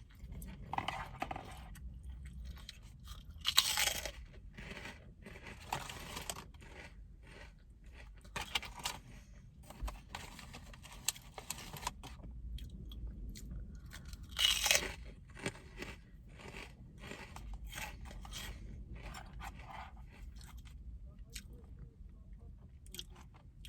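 A person chewing crunchy food close to the microphone, a steady run of crisp crunches and mouth clicks, with two louder bites at about 4 seconds and about 15 seconds in.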